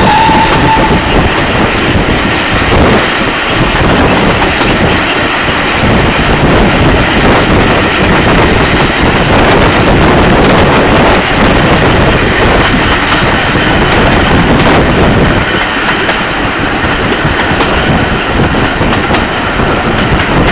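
Steam-hauled heritage train running along the line, heard from an open carriage window: a loud, steady rush of wind and wheel noise. A high tone stops about a second in.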